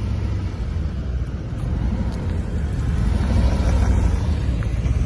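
Harley-Davidson Twin Cam V-twin engine running steadily under way, a low rumble with a noisy rush over it, getting a little louder about three seconds in.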